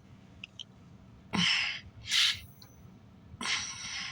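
A person breathing audibly close to the microphone, with a few short breathy sighs and intakes of breath spaced a second or so apart.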